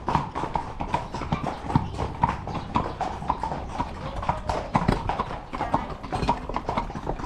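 Horses' hooves clip-clopping on a hard trail, a quick, uneven run of hoof strikes.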